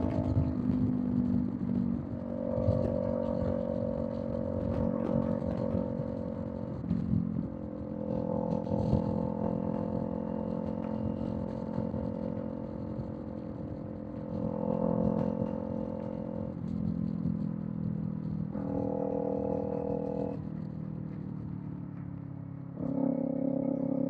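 Kawasaki Z400 parallel-twin with a Villain M1 aftermarket exhaust running at expressway cruise, its note holding steady, then shifting several times with throttle changes and growing louder near the end.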